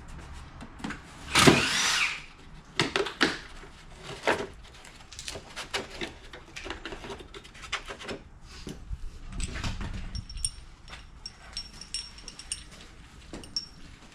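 Hand tools and metal engine parts knocking and clinking during an engine teardown, with a louder clatter about a second and a half in.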